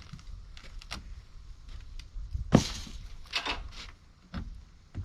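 Knocks and clunks from handling a heavy, water-soaked piece of rotted camper wood, with one loud thump about two and a half seconds in and a few short scrapes soon after.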